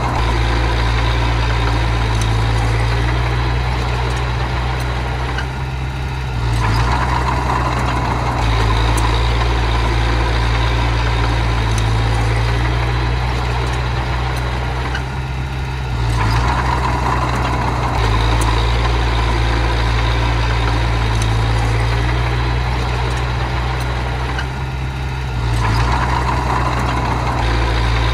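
Diesel engine of earthmoving machinery running steadily, its note and loudness dipping and recovering about every nine seconds, as in repeated working cycles of pushing soil.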